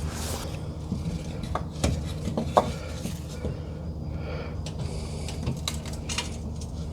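Metal tools and parts clinking and clanking, with one sharper clank about two and a half seconds in, over a steady low hum.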